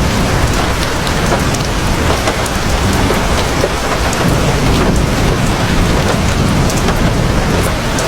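Heavy rain falling steadily, a dense even hiss with scattered sharp drop ticks over a deep, continuous low rumble.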